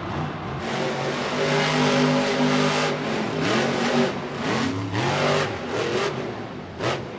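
Grave Digger monster truck's supercharged V8 engine revving hard under throttle, its pitch climbing and dropping several times, with short throttle blips near the end.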